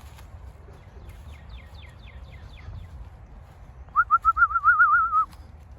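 A rapid warbling whistle, loud and held at a near-steady pitch for just over a second about four seconds in: a pigeon fancier's whistle calling racing pigeons down to the loft. Fainter quick falling bird notes come earlier.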